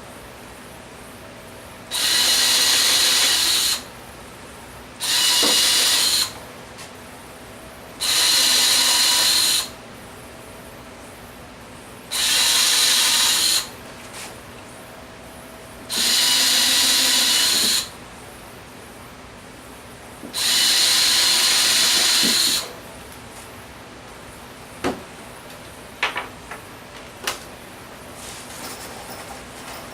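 A power drill running in six short bursts of one to two seconds each, a few seconds apart, followed by a few light clicks near the end.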